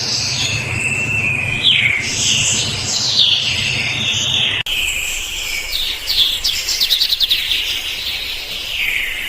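Chorus of small birds singing and chirping, many high overlapping calls with short glides and quick trills. The sound breaks off abruptly and starts again about four and a half seconds in.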